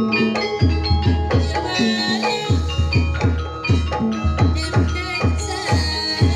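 Javanese gamelan-style music for a barongan/jaranan show: deep drum strokes that drop in pitch keep a quick, steady beat under ringing metallophone notes.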